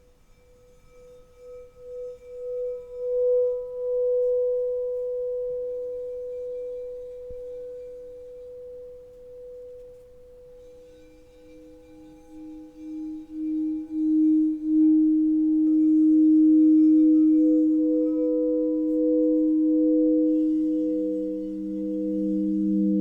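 Singing bowls ringing in long sustained tones. A higher bowl swells up in pulses, a lower one joins about five seconds in and grows to be the loudest, and a third, lower still, comes in near the end.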